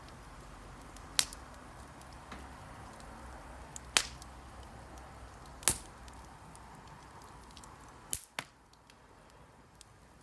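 Wood campfire burning: a soft steady hiss broken by sharp crackling pops, about five loud ones and several faint ticks. The hiss falls away about eight seconds in.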